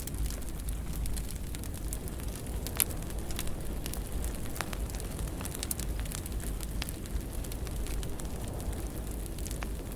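Wood fire burning in a fireplace: a steady low rumble of flames with scattered crackles and pops, one sharper pop about three seconds in.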